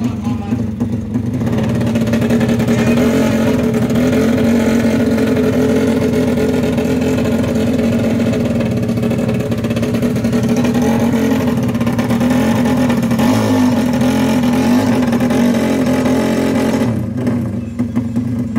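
Four-stroke drag-racing motorcycle engine held at high, steady revs for about fifteen seconds, then dropping back to a rough, uneven idle near the end.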